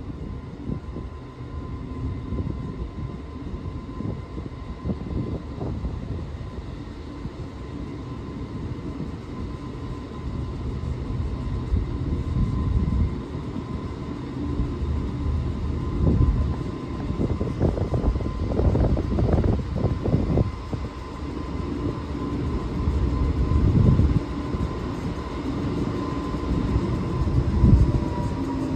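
Indian Pacific passenger train, hauled by an NR class diesel-electric locomotive, rolling slowly into the platform. Its engine rumbles louder as it draws near, under a steady high whine that drops in pitch near the end as the locomotive reaches the microphone.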